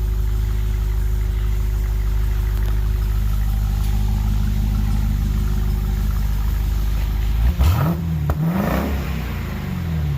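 2021 Dodge Durango SRT Hellcat's supercharged 6.2-litre V8 on its factory exhaust, idling steadily, then revved twice near the end, its pitch climbing and falling each time.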